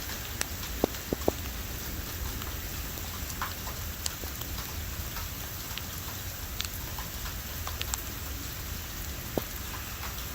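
Heavy thunderstorm rain falling steadily, with scattered single drops striking sharply close by.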